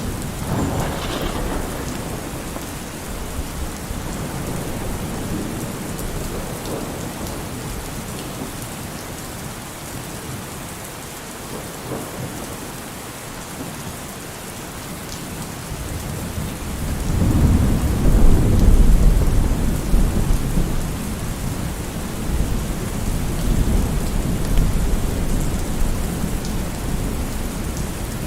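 Steady heavy rain with thunder: a short rumble near the start, then a long, loud rolling rumble building about seventeen seconds in and slowly dying away.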